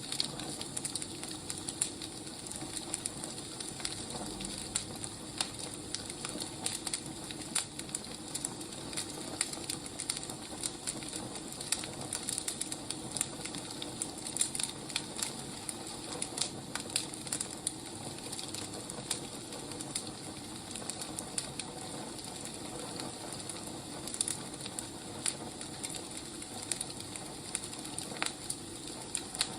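Firewood burning: a steady hiss with frequent irregular crackles and pops.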